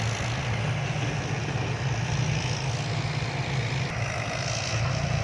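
Diesel dump truck engine running steadily at low revs, a constant low hum.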